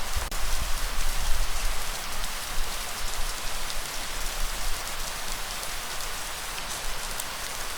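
Steady heavy rain hissing, with scattered drop ticks, over a low rumble that is strongest in the first few seconds.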